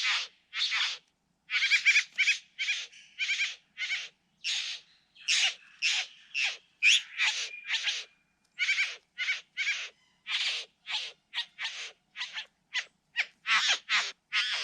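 Satin bowerbirds calling: a fast, unbroken run of short, harsh, rasping notes, about two or three a second, with a few brief thin whistles between them.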